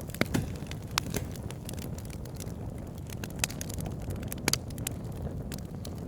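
Burning wood crackling: sharp, irregular pops and snaps, a few a second, over a steady low rush from the fire.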